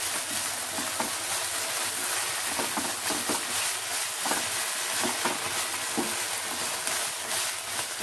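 Spice paste with tomato purée sizzling in hot oil in a nonstick pan as a silicone spatula stirs it, with a steady hiss and irregular soft strokes of the spatula.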